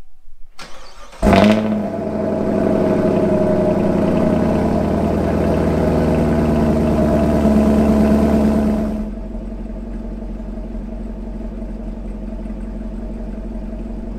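6th-gen Camaro SS 1LE's 6.2-litre LT1 V8 on its stock exhaust starting up. The starter cranks briefly, the engine catches with a loud flare a little over a second in and runs at a high fast idle, then settles to a lower, steady idle about nine seconds in.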